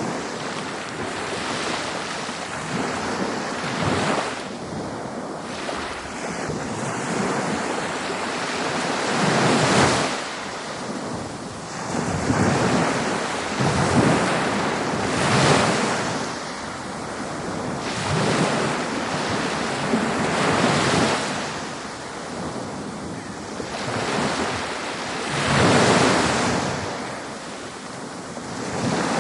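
Ocean waves breaking on a beach, the surf swelling and washing back in a slow, uneven rhythm, with a louder break every few seconds. Some wind noise on the microphone.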